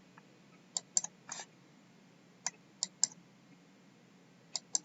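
Computer mouse clicking, a few quick clicks at a time in three small groups, as weather model maps are brought up on screen.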